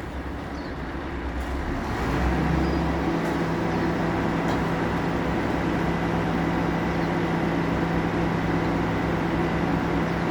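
Garbage truck's engine running, stepping up about two seconds in to a louder, steady higher speed and holding there.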